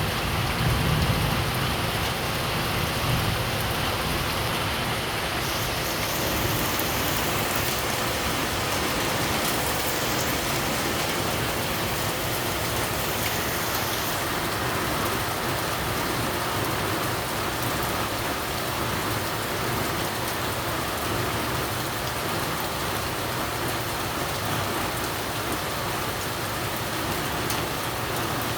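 Steady heavy rain pouring down, with a low rumble under it in the first few seconds.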